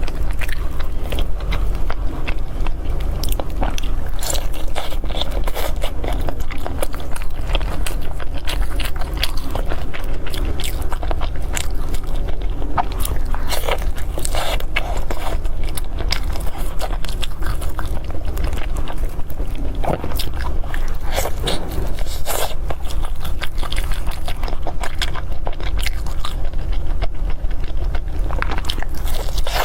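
Close-miked chewing and biting of glutinous rice with meat: wet mouth smacks and soft crunchy bites, steady throughout, over a constant low hum.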